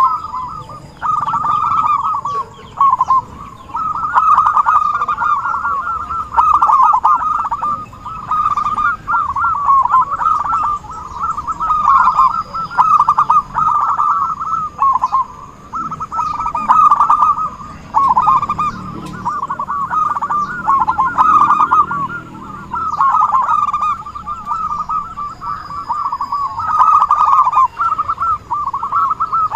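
Zebra doves (perkutut) cooing over and over: rapid stuttering coo phrases, one after another with only brief gaps between them.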